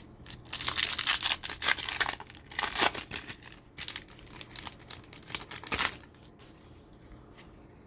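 Plastic trading-card pack wrapper being torn open and crinkled by hand, a dense crackling that stops about six seconds in.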